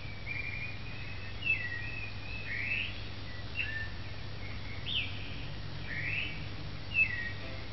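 A bird singing: a string of short whistled chirps that slide up and down, roughly one a second, over a low steady hum.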